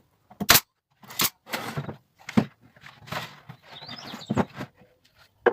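Several sharp, irregular wooden knocks with scraping and rustling between them, as small wood battens are handled and set in place.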